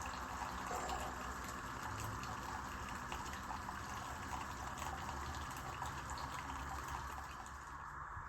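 Keurig K-Iced single-serve coffee maker brewing: its pump running with a low hum while coffee streams into the cup in a steady hiss.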